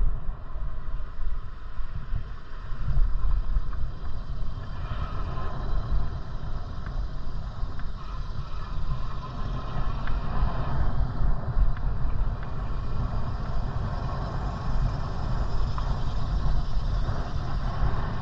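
Wind buffeting the microphone of a moving bicycle, a continuous uneven low rumble with the hiss of riding underneath.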